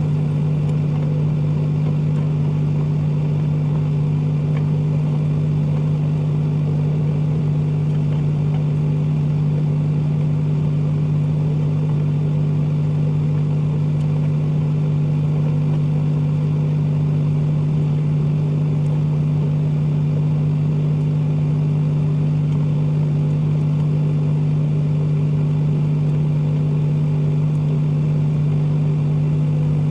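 Microwave oven running: a steady, unchanging low electrical hum with no pops or crackles.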